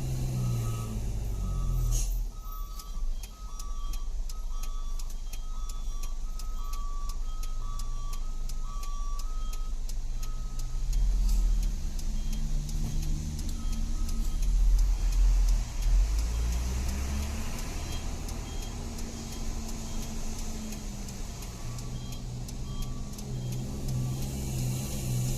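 Truck engine running while driving on a steep descent, its pitch rising and falling with speed. For roughly the first ten seconds a repeating two-note beeping sounds over the engine.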